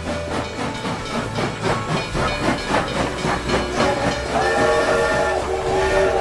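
A moving train, its wheels clattering in a quick, even rhythm over the rails with a low steady rumble. About four seconds in, a train whistle sounds, a held chord-like tone lasting about two seconds with a brief dip in the middle.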